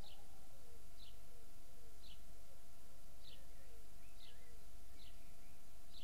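Birds calling: a short, high, falling note repeats about once a second over fainter, lower calls, against a steady low background rumble.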